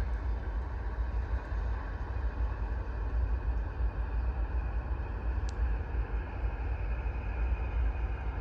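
Steady low engine rumble at a distance, unbroken, with a faint single tick a little past the middle.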